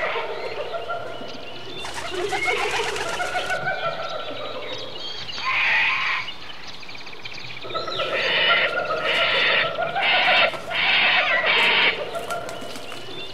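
Birds calling, with cooing calls like a pigeon's or dove's, repeating many times.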